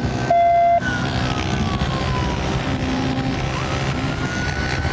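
Police siren wailing in a slow fall and rise over a patrol car's running engine, heard from inside the cruiser during a pursuit. A short steady electronic beep sounds about half a second in.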